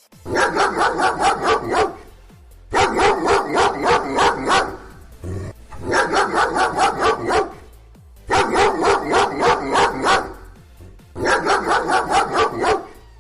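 A dog barking in quick runs of about eight barks each, five runs with short pauses between them.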